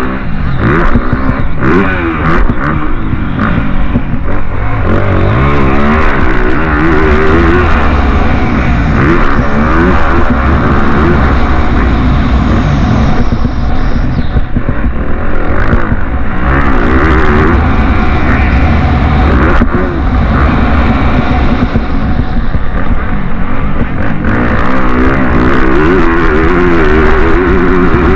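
Several motocross bike engines racing, revving up and down over and over with their pitches overlapping as the bikes accelerate and shift.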